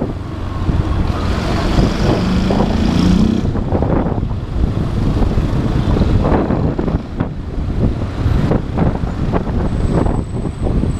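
Motorcycle engine running while riding in city traffic, with wind buffeting the camera microphone. About two seconds in there is a brief rising engine note with a hiss above it, lasting about a second and a half.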